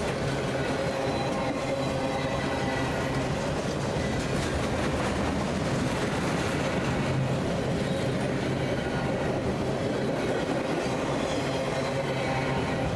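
BNSF train rolling past at a steady level, its wheels running along the rails with a continuous rumble and a steady hum.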